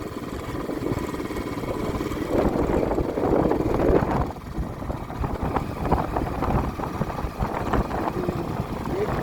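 A vehicle running along a road, with a steady low rumble of engine and road noise. About four seconds in the rumble dips a little and a run of short knocks and rattles comes through.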